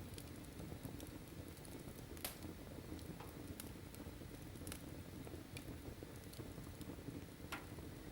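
Wood fire burning in a fireplace: a low steady rumble of flames with scattered sharp crackles and pops, the clearest a little after two seconds and near the end.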